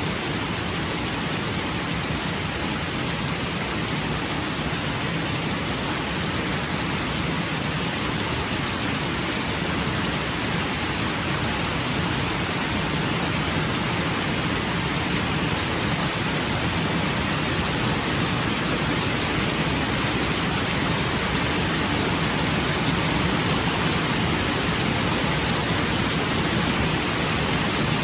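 Steady rainfall, an even dense hiss of falling rain with no separate drops or thunder standing out, growing slightly louder toward the end.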